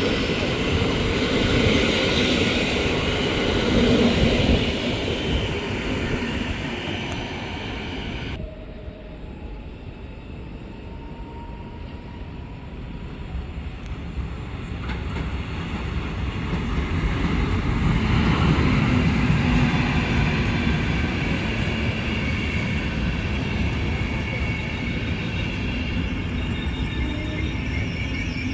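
Trains running through a railway station, with a steady rumble of wheels on rails. The sound drops abruptly about eight seconds in, then builds again past the middle.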